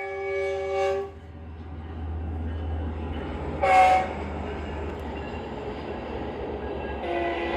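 Locomotive air horn sounding a multi-note chord: a blast of about a second at the start, a short, louder toot a little before halfway, and another long blast beginning near the end, over the steady low rumble of the train.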